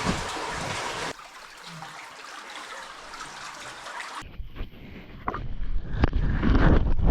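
Cave spring stream running as a steady rush of water, dropping sharply in level about a second in. From about four seconds in, low rumbling and scraping with a few sharp knocks take over and are the loudest sound.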